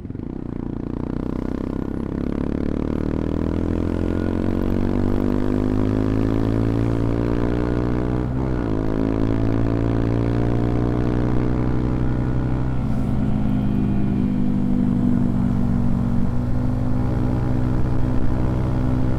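CFMoto Papio XO-1's small single-cylinder engine heard from on board, accelerating through the gears: the pitch climbs steadily, drops with an upshift about eight seconds in, climbs again, and drops with further upshifts near thirteen and sixteen seconds. It grows louder over the first few seconds.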